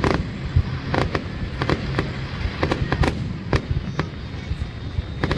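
Fireworks display: shells bursting in irregular sharp bangs, sometimes several in a second, over a continuous low rumble of further explosions.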